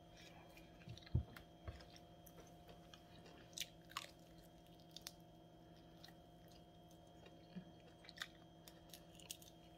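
Quiet chewing and biting into a crispy garlic parmesan chicken wing, with a few scattered crunches and mouth clicks.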